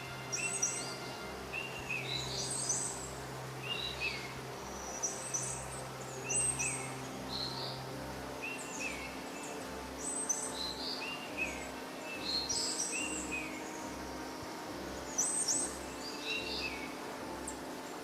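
Birds chirping in short, high, repeated calls about once a second, over a faint steady background hum.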